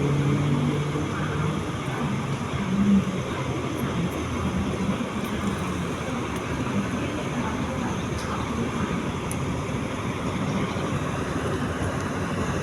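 Diesel train engine running steadily, with a low engine tone that is strongest in the first few seconds and a short louder moment about three seconds in.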